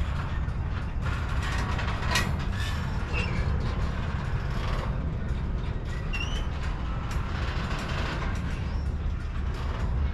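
Double-stack intermodal freight cars rolling past: a steady low rumble of steel wheels on rail with scattered clicks and creaks, and a few brief high squeals about three and six seconds in.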